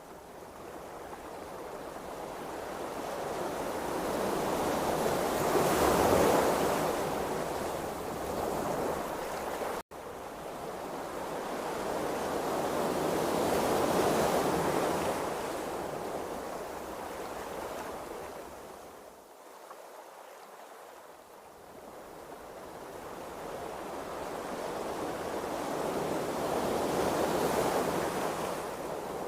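Ocean waves washing, a steady rush of water that swells and subsides in slow surges several seconds apart, with a momentary dropout about ten seconds in.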